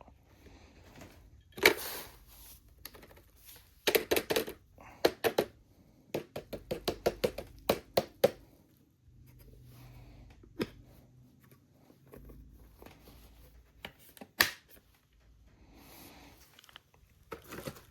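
Plastic clicks, taps and rattles from a stick vacuum's detached dust bin being handled as its trapdoor is opened and it is emptied, with a few sharp snaps and runs of quick taps.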